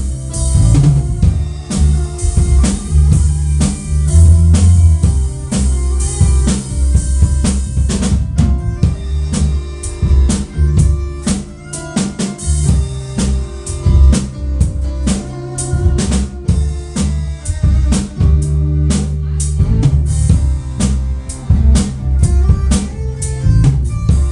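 Band music driven by a drum kit, with bass drum, snare and rimshot hits over a steady bass line; an electric guitar also plays.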